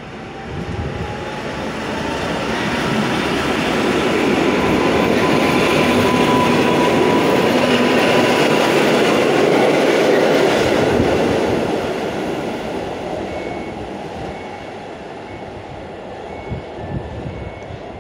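EN57FPS electric multiple unit pulling out and passing close by: a steady rail rumble with a whine rising in pitch as it accelerates, swelling to a peak as the cars go past, then fading as it pulls away.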